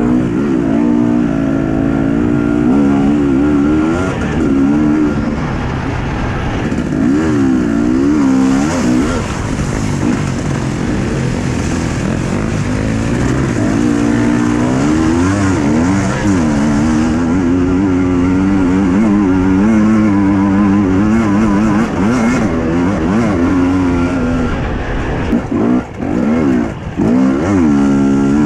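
Husqvarna TE 250i two-stroke enduro motorcycle engine under hard riding, its pitch rising and falling again and again as the throttle is opened and closed, with a couple of brief drops near the end.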